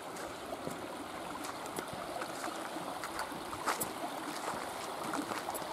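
Shallow river water trickling and flowing over stones, a soft steady wash, with a few faint clicks scattered through it.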